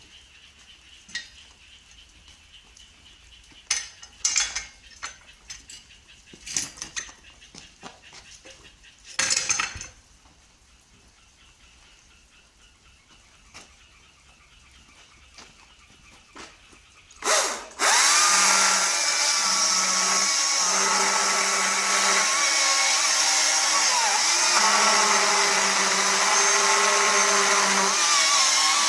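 Scattered knocks and clicks, then about 17 s in a chainsaw starts and runs at high speed, a loud steady motor sound whose pitch wavers slightly.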